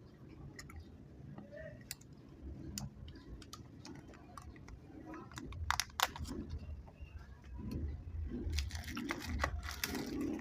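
Close-miked chewing of chewy chocolate candy: wet mouth clicks and smacks over soft low thumps, with two sharp clicks about six seconds in and denser crackling from about eight seconds.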